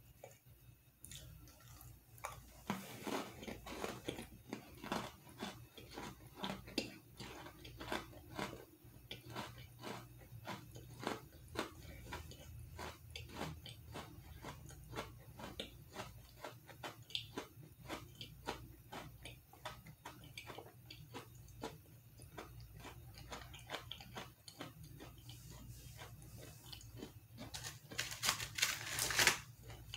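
A person chewing a Java chip cream Oreo cookie close to the microphone: a crunchy bite a few seconds in, then steady, evenly repeated crunchy chews. Near the end a brief loud crinkle of the cookie's plastic packaging.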